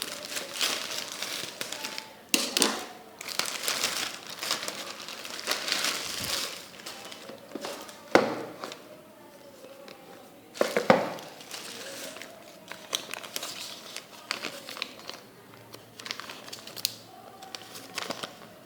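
Plastic packaging being handled and crinkled while the phone's box is unwrapped, in irregular bursts with a few sharper, louder crackles.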